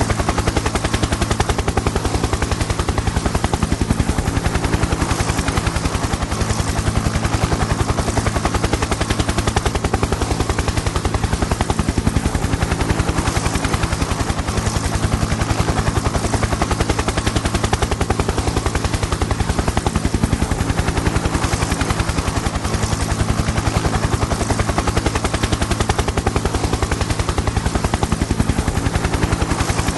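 Helicopter in flight: the fast, steady chop of the rotor blades over a low engine drone, unchanging throughout.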